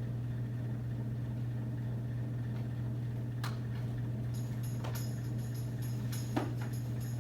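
A steady low drone, with small metal bells beginning to jingle softly and ring high about four seconds in, along with a few light taps.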